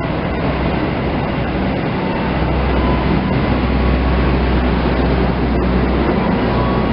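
Train running through a station: a loud, steady rumble of wheels on rail, with a low hum that grows stronger about two seconds in and a few faint clicks.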